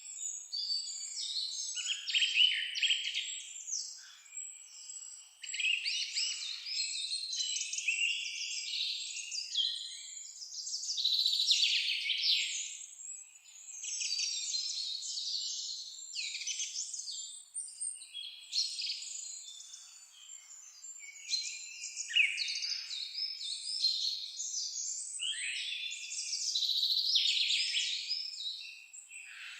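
Many songbirds singing and chirping at once, a dense chorus of overlapping trills and quick chirps with no pauses.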